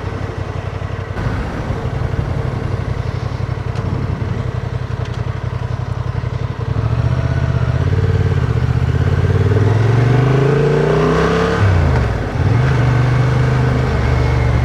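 Adventure motorcycle's engine running at steady speed, then accelerating with a rising pitch from about seven seconds in; near twelve seconds the pitch drops sharply and picks up again, then holds steady.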